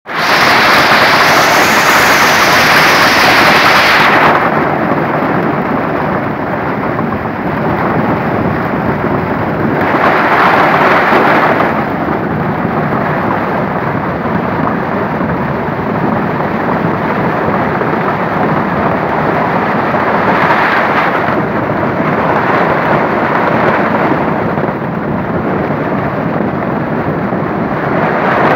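Heavy rain and hail in a storm: a loud, continuous rush that swells louder several times, most strongly in the first four seconds and again about ten and twenty seconds in.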